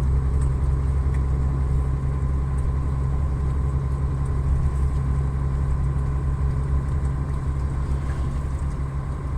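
A truck's diesel engine runs steadily under way with road noise, a constant low drone. A faint steady whine sits above it.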